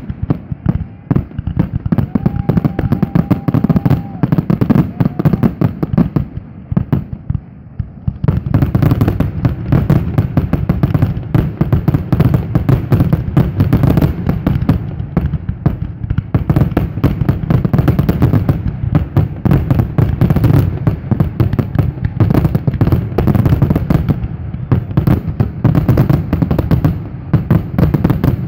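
Fireworks grand finale: aerial shells bursting in rapid, near-continuous succession, a dense barrage of booms and crackles. It eases off for a few seconds about five seconds in, then builds to a denser barrage.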